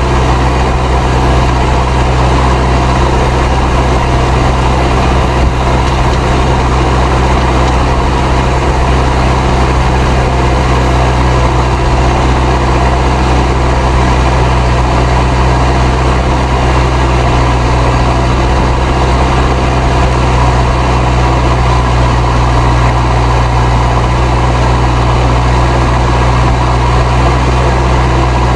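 Fendt 307 Ci tractor's turbocharged diesel engine running steadily under load while pulling a plough, with the turbo whistling over the engine note.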